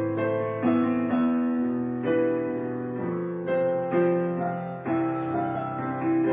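Background piano music, gentle chords and single notes played at a slow, even pace.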